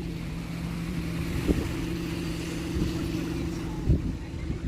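A motorboat engine runs with a steady hum that fades out about four seconds in. Two dull thumps come through over it, the second one louder.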